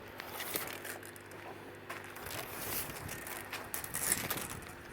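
Handling noises of a tape measure being pulled out and set against the brickwork: irregular clicks, scrapes and rustling, busiest in the second half.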